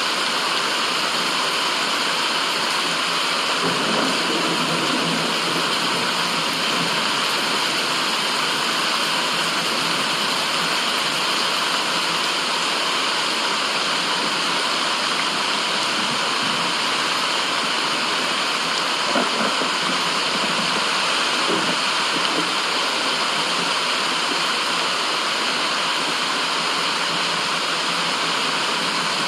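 Steady, even rushing noise like a waterfall, used as white noise, with slight low swells a few seconds in and again about two-thirds through.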